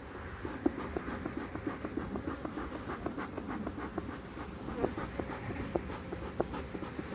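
Irregular light scraping and clicking from wooden beehive frames and a hive tool being handled during a hive inspection.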